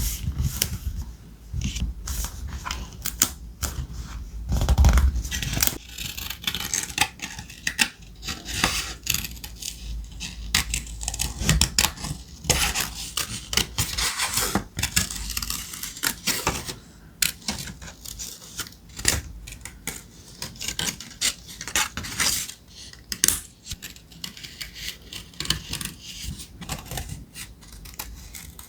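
Thick vintage ephemera paper being handled on a desk: rustling, sliding and crinkling, with many small taps and clicks throughout and a heavier low thump about five seconds in.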